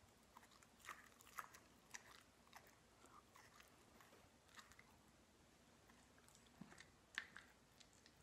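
Near silence with faint, scattered clicks of chewing, about half a dozen in all, as a hot pepper is chewed with the mouth held wide open by a plastic cheek retractor.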